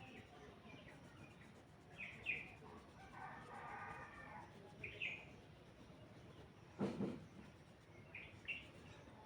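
Faint bird calls in the background: a few short chirps, a longer call about three seconds in, and more chirps near the end. A single sharp knock sounds about seven seconds in.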